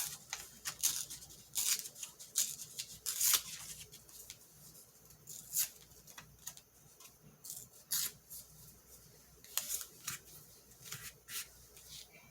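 Paper being torn by hand in many short rips at irregular intervals, tearing the printed quote's edges.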